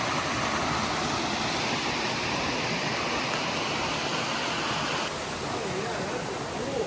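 Rushing creek water, a steady dense hiss of a mountain stream flowing over rocks. About five seconds in it drops slightly in level and loses some of its brightness.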